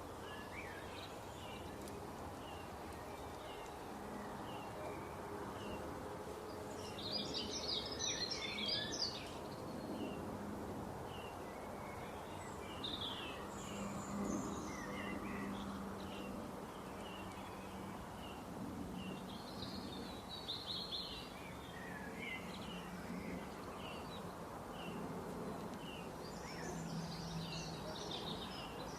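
Birds singing outdoors: one bird repeats a short chirp about once a second, while others break in with bursts of song several times. Beneath them is a steady low background noise.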